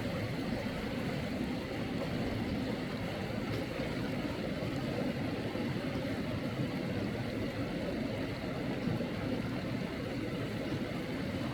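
Steady, even rush of flowing stream water, strongest in its low rumble.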